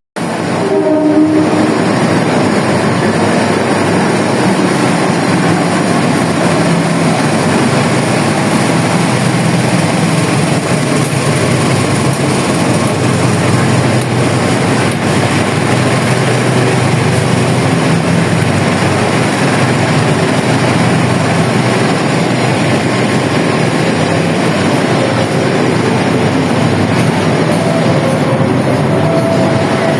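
Diesel-hauled passenger train running through the station: a loud, steady rumble and rush of the locomotive and coaches on the rails.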